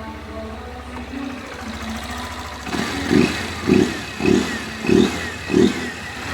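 Honda CG 160 Fan motorcycle's single-cylinder engine idling, then blipped five times in quick succession, about one rev every 0.6 s, before dropping back to idle. It runs clean, without the engine noise it had before its repair, which the owner says is gone ('ficou zero').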